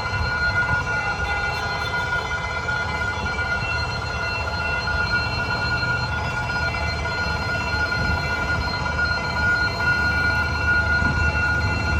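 Train running on the Vietnamese railway: a low rumble under a steady high-pitched ringing tone, growing slightly louder near the end.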